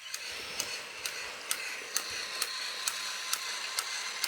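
Battery-powered Trackmaster toy train engine running along its plastic track: a steady motor whir with a sharp click repeating evenly about twice a second.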